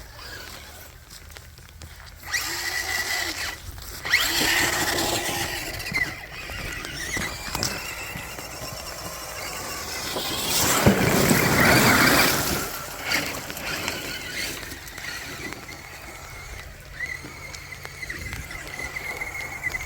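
RC rock crawler's electric motor and gears whining at high pitch as it drives, the whine rising in pitch once and dropping away, with a loud rushing splash near the middle as the truck goes into the water.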